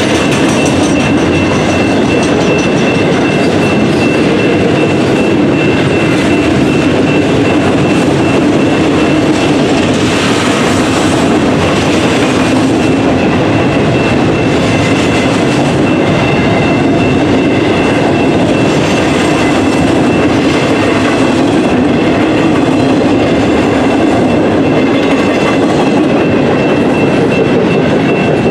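Train passing at close range: a loud, steady rolling rumble of wheels on rail that carries on without a break, with a thin steady high tone running through it.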